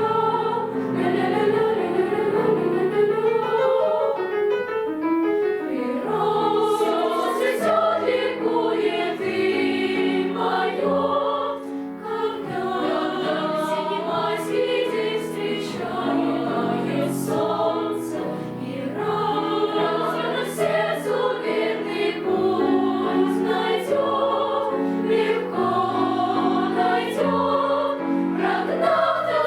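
Children's choir singing a song in several voices, in continuous phrases.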